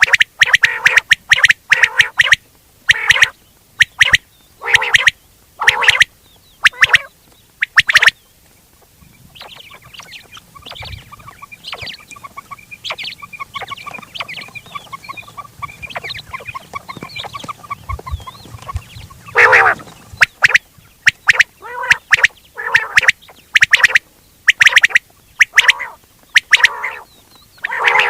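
Quail calling: loud, short, harsh calls in quick succession, fading to a soft continuous warbling trill about a third of the way in, then the loud rapid calls resume near two-thirds of the way through.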